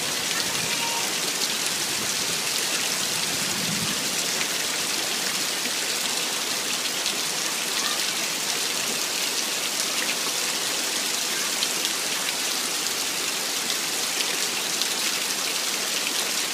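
Steady rain falling on surfaces: a dense, even hiss flecked with the ticks of single drops.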